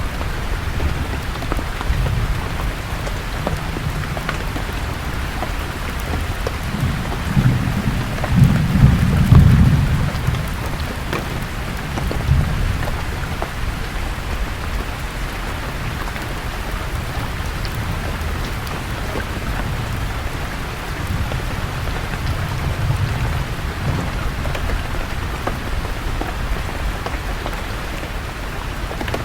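Steady rain falling on leaves, with scattered single drop ticks, under low thunder rumbling; the loudest roll of thunder swells and fades about a third of the way in, with fainter rumbles later.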